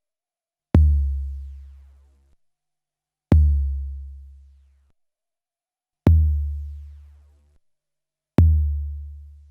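Deep kick-drum sample played back from an SP1200 12-bit sampler, struck four times. Each hit is a sharp click that drops into a low boom fading away over about a second and a half.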